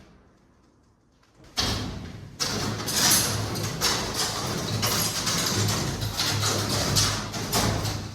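Camping gear being handled: rustling and scraping with many small knocks, starting suddenly after a second and a half of near silence.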